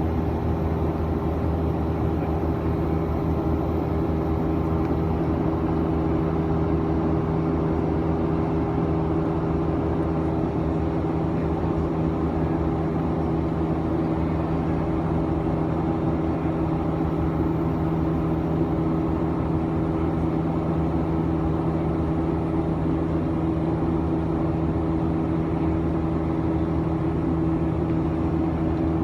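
Boeing 737-900's CFM56-7B jet engines running steadily, heard inside the passenger cabin as a constant hum with several steady low tones over a rushing noise.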